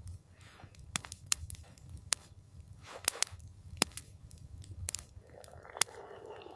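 Campfire crackling: sharp, irregular pops and snaps, a few close together, over a steady low rumble. A soft whooshing swell rises near the end.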